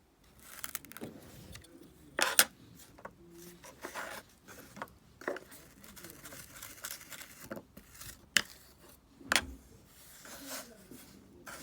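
Kinetic sand being cut, scraped and pressed: irregular soft scraping with several sharp clicks, the loudest near the start and about two-thirds of the way through.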